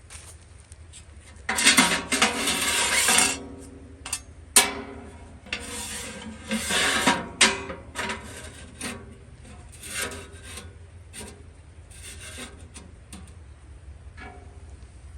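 Rubbing and scraping of gear being handled, in two longer stretches, with a few sharp clicks and knocks between and after.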